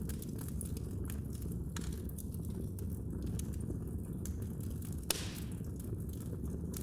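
Fire burning in a fireplace: a steady low rumble with scattered small crackles, and one sharper pop about five seconds in.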